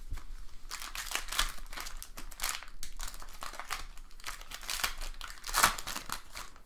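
Foil trading-card pack wrapper crinkling and tearing as it is handled, in a quick string of crackles with a louder one near the end.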